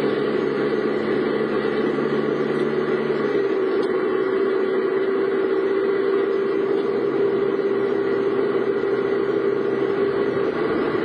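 Car engine and road noise running steadily. A lower engine hum drops away about three seconds in.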